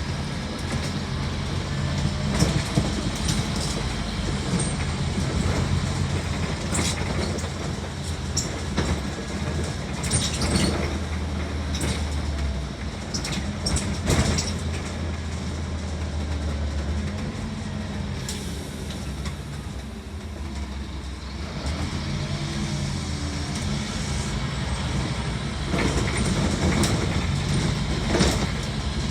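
Inside the upper deck of a 2008 Scania N230UD Omnicity double-decker bus: the diesel engine is heard as a steady low hum that changes pitch partway through and rises again later on, as the bus moves and changes speed. Frequent clicks and knocks of interior rattles run over it.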